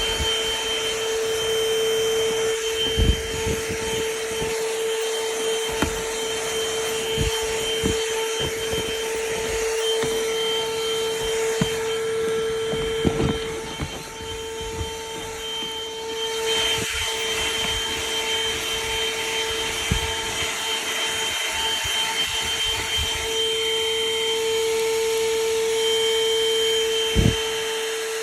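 ThisWorx corded handheld car vacuum running steadily with a high motor whine over the rush of suction air, in the car's trunk. Occasional knocks are heard, and the sound dips briefly about halfway through.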